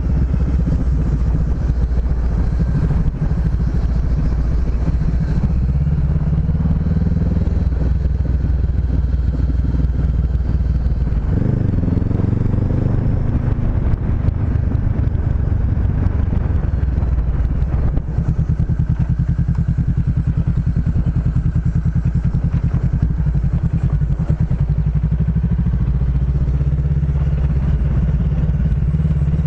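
Honda CB500X's parallel-twin engine running steadily while riding, with the engine pitch rising briefly a little under halfway through.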